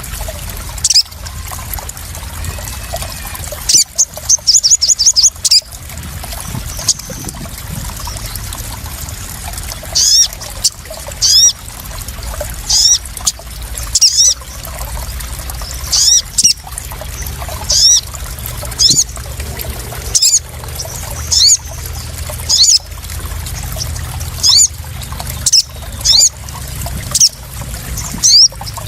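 Water trickling and splashing steadily, with a sunbird calling over it in short, sharp, high descending notes every second or two, and a quick run of about six notes around five seconds in.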